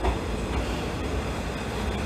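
Single-car diesel railcar pulling into a station platform, its engine and wheels running steadily as it draws close.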